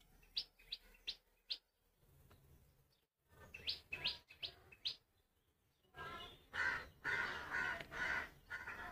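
Small birds chirping: short high chirps in quick runs, then a denser, busier stretch of chirping from about six seconds in.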